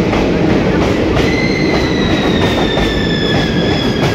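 Passenger train running through a tunnel and out into a rock cutting, with a heavy rumble and the wheels clicking over rail joints. From about a second in, a high metallic squeal joins in and slowly slides lower in pitch.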